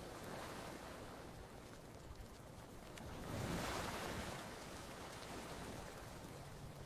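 Ocean waves washing onto a beach, one wave swelling and breaking about halfway through, with a few faint campfire crackles.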